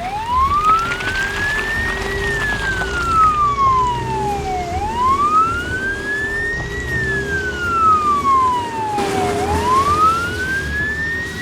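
Emergency vehicle siren wailing slowly: its pitch rises for about two seconds and falls for about two and a half, going round about two and a half times, over a low steady rumble.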